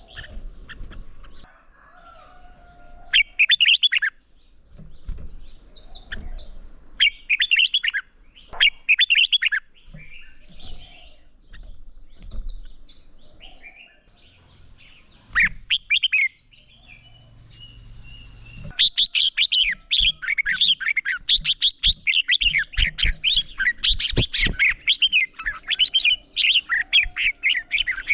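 Red-whiskered bulbuls singing: short bursts of quick, warbling song with pauses between them, then from about two-thirds of the way in a rapid, almost unbroken run of song.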